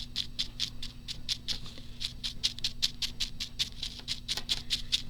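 A coarse, dry paintbrush dabbed rapidly onto paper, a quick steady run of light taps about six a second, stippling paint on.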